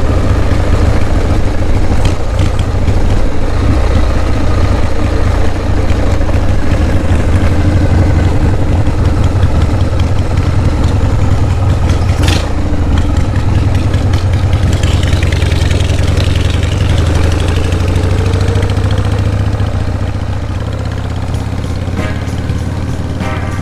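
Motorcycle engine running with a deep, steady rumble, with a single sharp click about halfway through; it eases off somewhat near the end.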